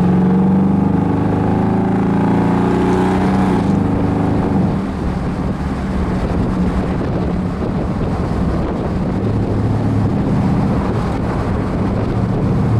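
Ford Coyote 5.0 V8 of a hot-rodded car running while driving. Its steady engine note is clear at first; from about four seconds in, rushing wind and road noise covers it. The engine note comes through again near the end.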